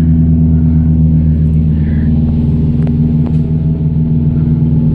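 Steady low droning hum of a cruise ship's machinery, with several even tones that hold without change. Two faint ticks come about three seconds in.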